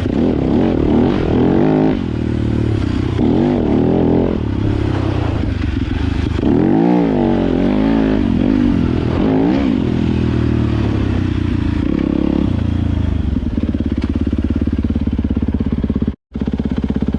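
Yamaha YZ250FX dirt bike's engine running on a trail ride, revving up and falling off again every second or two as the throttle opens and closes. Near the end it settles into a steady, even low-speed run, then cuts out briefly for a moment.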